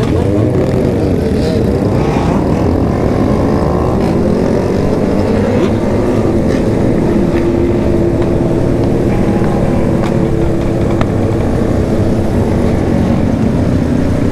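Sport motorcycle engines running under way. The pitch rises and falls with the throttle in the first few seconds, then holds fairly steady.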